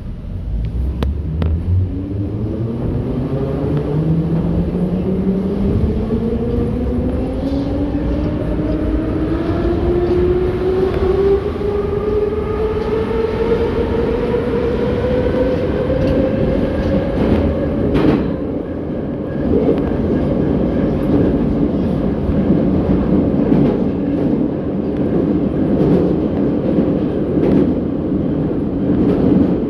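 81-717.6 metro train heard from inside the car, accelerating through the tunnel: the traction motor and gear whine rises smoothly in pitch for about seventeen seconds. About eighteen seconds in a sharp click sounds, then the whine stops rising and the train runs on with steady running noise.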